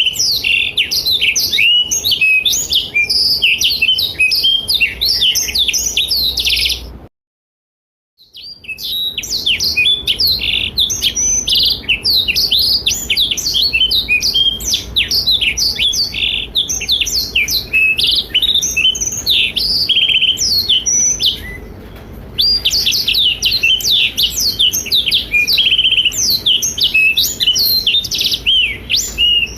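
Blackthroat (black-throated canary) singing a long, rapid, high warbling song of quick trills and chirps. The song stops dead for about a second about seven seconds in, and pauses briefly again about two-thirds of the way through.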